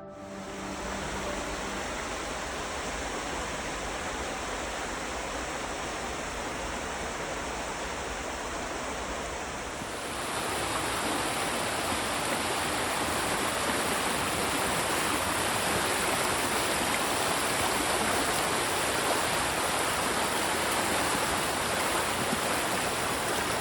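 Steady rush of flowing river water, which gets louder and brighter about ten seconds in.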